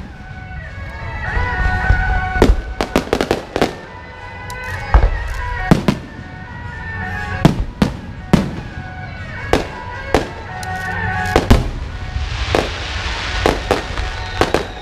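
Aerial firework shells bursting in a rapid, irregular string of sharp bangs, with a crackling hiss building near the end.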